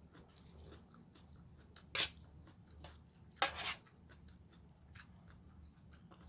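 Close-up chewing of a raw vegetable salad, with many small crisp crunches. Two louder crunches come about two seconds in and again about three and a half seconds in, the second one longer.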